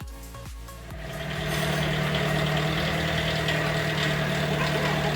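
A motor-driven machine starts up about a second in and runs at a steady speed with an even hum.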